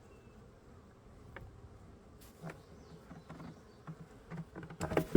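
Honey bees buzzing around an open hive, with scattered knocks of wooden hive parts being handled. Near the end comes a loud thump of a box being dropped, and the buzzing grows louder after it.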